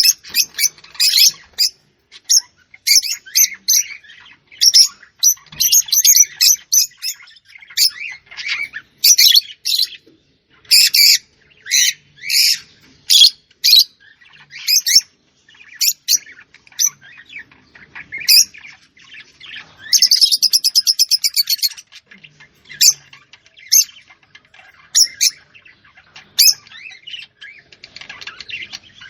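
Small birds chirping and tweeting in short, irregular high calls, with one fast rapid trill a little past two-thirds of the way through. The calls grow fainter near the end.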